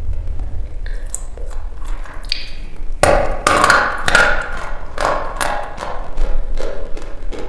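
Dry chalk being bitten and chewed close to the microphone: a string of crisp cracks and crunches, with a denser run of loud crunching about three seconds in.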